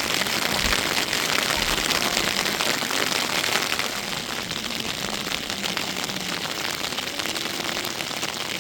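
Steady rain falling: a dense hiss of many small drop ticks, easing slightly about four seconds in.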